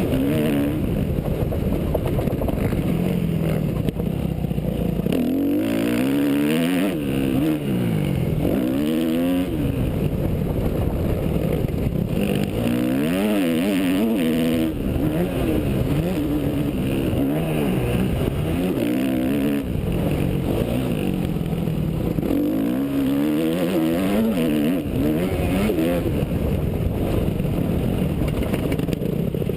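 Yamaha YZ250F single-cylinder four-stroke motocross engine revving hard and easing off over and over, its pitch rising and falling every second or two as the bike is ridden round the track.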